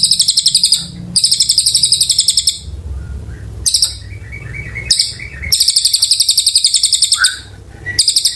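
Cililin (mountain tailorbird) singing long, rapid high-pitched trills in several phrases of one to two seconds with short breaks, over a low steady hum.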